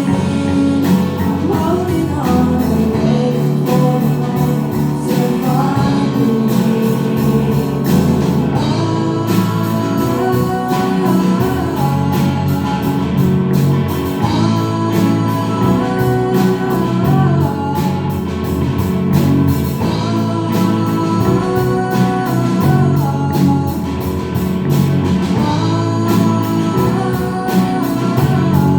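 A rock band playing a song live, with a sung lead vocal, guitars and a steady drum beat.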